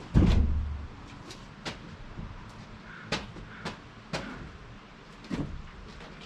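A heavy, deep thud just after the start, followed by about six sharp knocks spaced irregularly over the next five seconds, like heavy objects being struck or set down.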